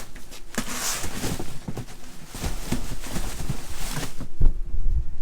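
Rummaging through dumpster contents: irregular rustling and knocking as boxes, bags and a basket are handled and opened, with a hissing rustle about a second in and heavier thumps near the end.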